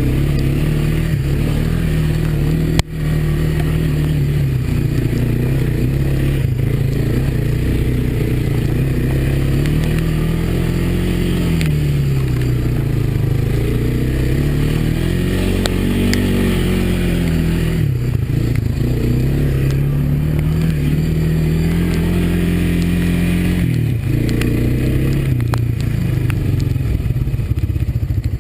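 Honda ATV's single-cylinder four-stroke engine running on a ride, its pitch falling and rising repeatedly as the throttle is eased and opened. A sharp knock sounds about three seconds in.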